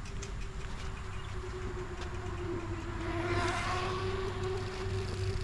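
Bicycle rolling along a paved trail: a steady tyre hum and rumble, with a swell of hiss a little past the middle.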